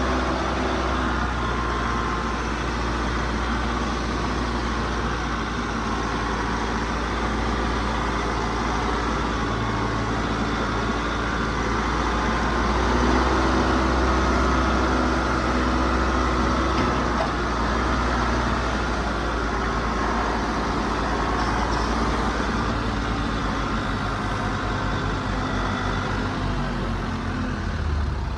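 An engine running steadily at a constant speed close by, with a strong low hum that swells slightly about halfway through.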